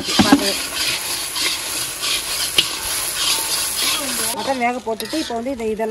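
Masala sizzling in oil in a large iron kadai while a long metal ladle stirs and scrapes through it. A person's voice comes in over the last second and a half.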